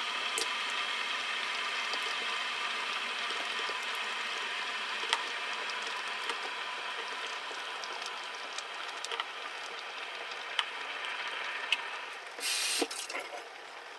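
Pot of matoke and beef stew cooking on the stove: a steady bubbling hiss with scattered small pops that slowly grows quieter. A short louder burst of noise comes about twelve seconds in.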